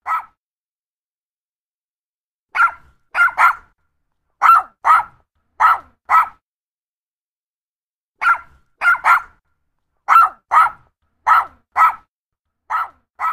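Dog barking: short, sharp barks, mostly in pairs, with pauses of a second or two between the pairs.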